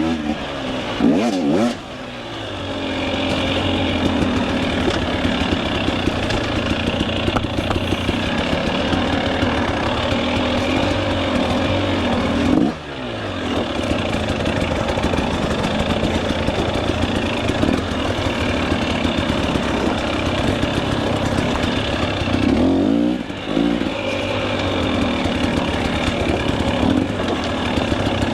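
Two-stroke KTM 300 EXC enduro dirt bike engine running hard on the trail, revving up and down with the throttle. Three times the throttle is shut briefly and the revs drop, then pick back up: about two seconds in, midway, and near the end.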